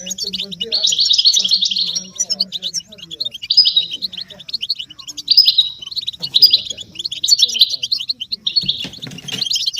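European goldfinches twittering and singing: fast runs of high, tinkling chirps in several bursts with short gaps between them. This is the excited group twittering used to stimulate a silent male to sing.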